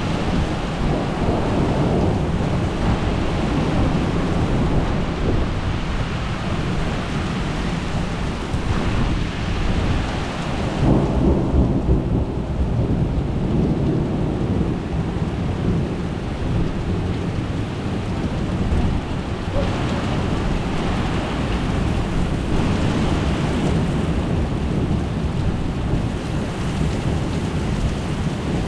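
Thunderstorm: steady rain with low rumbling thunder, which swells about eleven seconds in.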